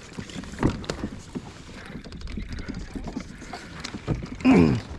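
Scattered knocks and clicks on a fishing kayak, with a stronger knock just under a second in, over a low rumble. A short falling vocal sound comes about four and a half seconds in.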